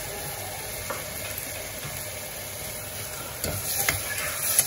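Chopped tomatoes, onions and ginger-garlic paste sizzling steadily in hot oil in an aluminium pressure cooker. From about three and a half seconds in, a perforated metal ladle stirs them, clicking and scraping against the pot.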